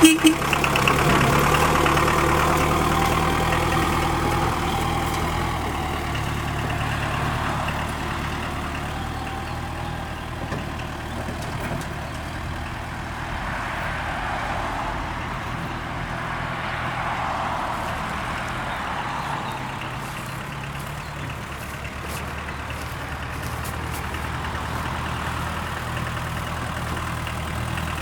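Mercedes-Benz OM 636 four-cylinder diesel of an Esslingen DZ 10 tractor running steadily, with a sharp click right at the start. The sound fades somewhat over the first ten seconds.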